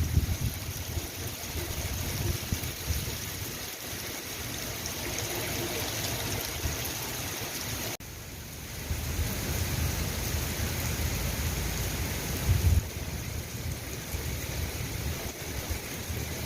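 Rain falling steadily, an even hiss with a low rumble underneath. The sound cuts out for an instant about eight seconds in, then carries on.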